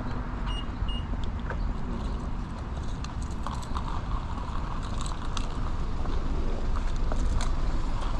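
A car running with a steady low rumble, with scattered small clicks and knocks. Two short high beeps sound about half a second in, then again just under a second in.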